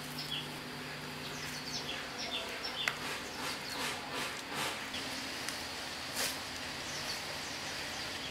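Small birds chirping in short falling calls over the first few seconds, with the rustle of bunches of fresh leafy greens being handled and sorted.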